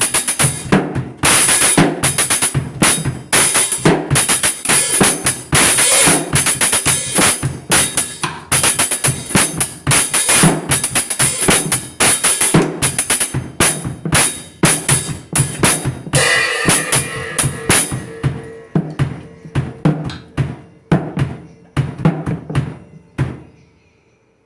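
Drums and cymbals being played: a dense, fast run of kick, snare and cymbal hits that thins out to sparser strokes over the last few seconds and stops about a second before the end.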